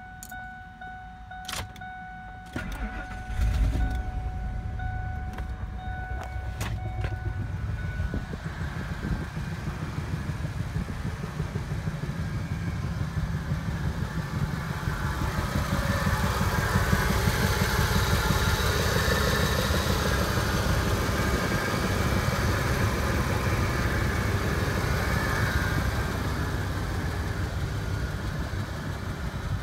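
Ford Expedition V8 being started: a steady dashboard chime and a few clicks come first, then the engine catches about three seconds in. It then idles steadily, sounding louder and brighter once it is heard at the open engine bay.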